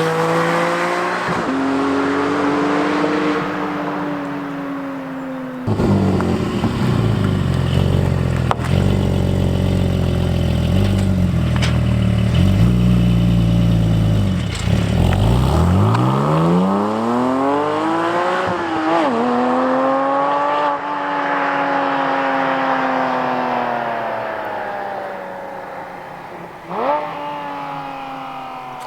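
Porsche 718 Cayman GT4's flat-six engine and exhaust under acceleration, the pitch rising with revs and dropping sharply at a gear change. There is a deep low rumble through the middle, and near the end a quick sharp rise in revs.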